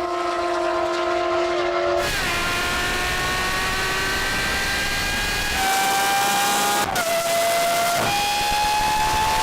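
High-revving supercar engines accelerating hard. The pitch climbs slowly through each gear and drops sharply at an upshift about seven seconds in, with abrupt jumps in pitch where the sound switches between cars.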